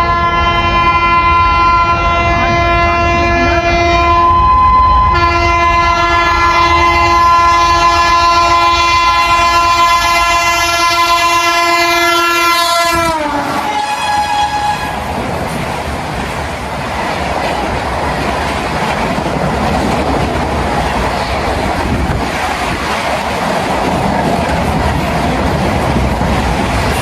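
Indian Railways express train passing at high speed: its locomotive horn sounds a long chord, breaking off briefly about five seconds in. Then the horn's pitch drops sharply as the locomotive goes by, followed by the steady rush and clatter of the coaches racing past.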